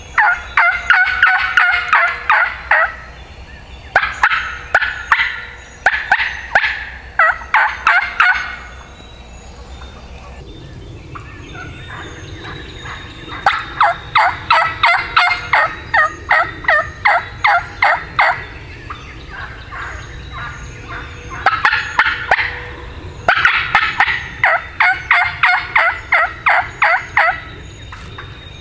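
Wild turkey calling in repeated runs of fast, sharp yelps and cutts, about five notes a second. There are several bursts a few seconds long, with the longest in the middle, typical of an agitated hen calling back and forth.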